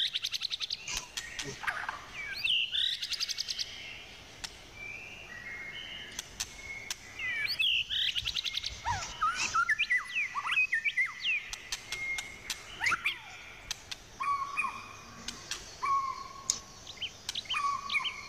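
Several birds chirping and calling: quick trills, short slurred whistled notes, and from about two-thirds of the way in a short, lower call repeated about once a second.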